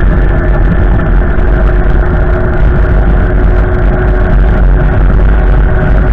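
Strong wind blowing hard into the microphone: a loud, steady low rumble with a few steady tones above it.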